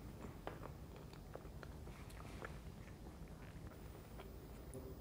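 Faint, close-miked chewing of soft chocolate fudge cake, with a scatter of small mouth clicks and smacks.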